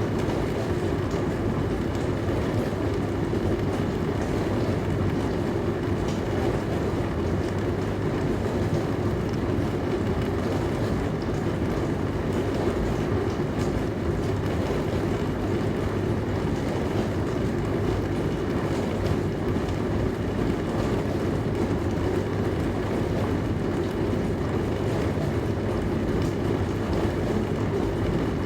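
Dishwasher running through a wash cycle: a steady low rumble of the pump and water spraying inside the tub.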